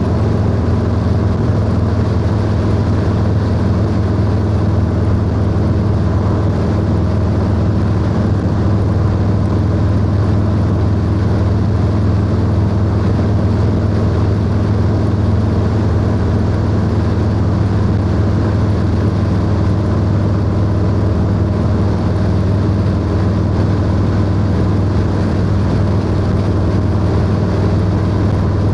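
Harley-Davidson Low Rider S V-twin engine running steadily under way at an even cruising speed, with a constant low drone and no shifting or revving.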